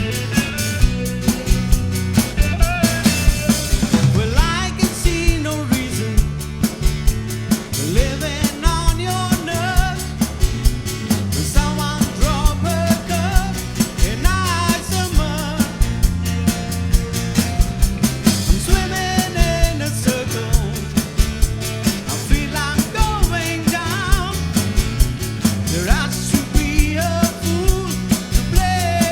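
A live rock band playing: drum kit keeping a steady beat under bass, with a sung or lead melody line wavering over the top.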